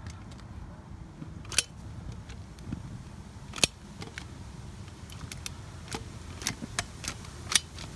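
Caulking gun squeezing out roof cement: several sharp, irregularly spaced clicks of the gun and its handling over a low rumble.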